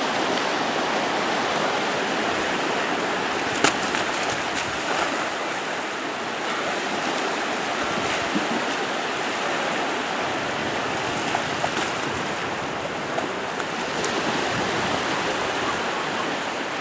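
Steady rush of ocean surf, with a single sharp click about three and a half seconds in.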